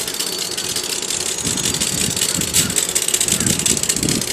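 Electric commuter train at the station: a steady hiss with a low uneven rumble that picks up about a third of the way in.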